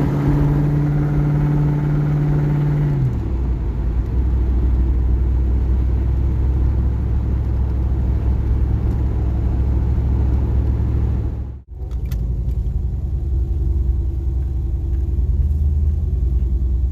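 Car engine running with a steady low road rumble; the engine hum drops in pitch about three seconds in, and the sound cuts out for a moment about two-thirds of the way through.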